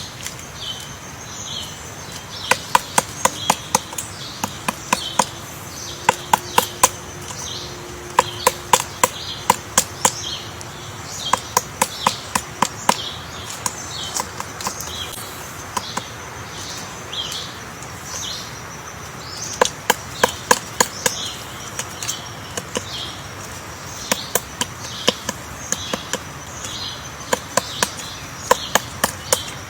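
Woodpecker pecking wood to excavate a nest hole: sharp knocks in short bursts of several strikes, with pauses between bursts. A high chirp repeats about once a second throughout.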